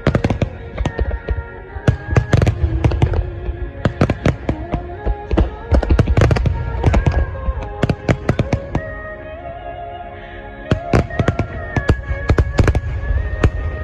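Aerial fireworks going off in quick succession, dozens of sharp bangs and crackles over a low rumble, with held musical notes playing alongside.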